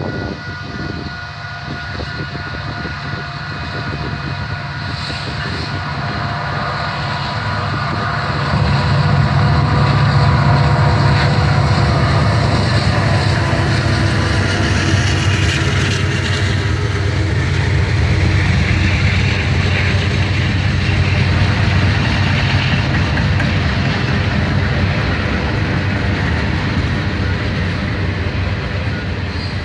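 Diesel freight train passing close by: the locomotives' engines drone, swelling about eight seconds in as they go past, then the steady rumble of freight cars rolling by on the rails.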